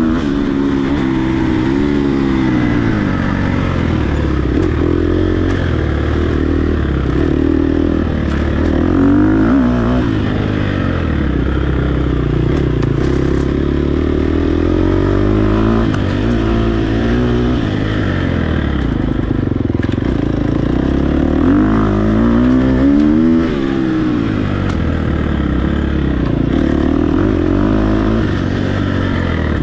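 Off-road dirt bike engine revving up and down as the rider works the throttle and gears, its pitch rising and falling every few seconds.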